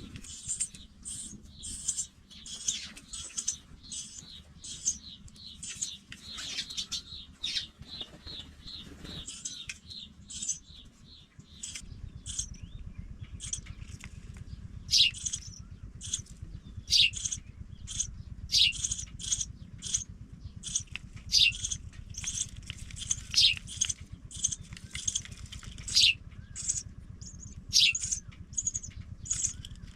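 Pipit nestlings giving many short, high-pitched peeps in quick succession, louder and more spaced-out in the second half. A low steady hum comes in under them a little under halfway through.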